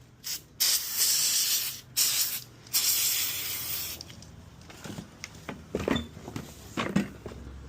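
Aerosol can spraying in a few hissing bursts over the first four seconds, then quieter handling with a few light clicks.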